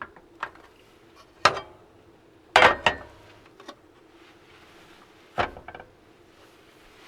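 A handful of sharp knocks and clatters of things being handled and set down inside a small space, the loudest a double clack about two and a half seconds in, over a faint steady hum.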